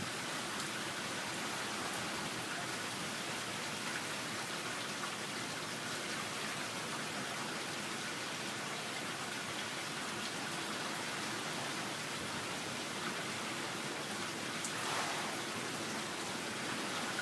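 Steady, even hiss of a severe storm's wind and rain, with no gusts standing out.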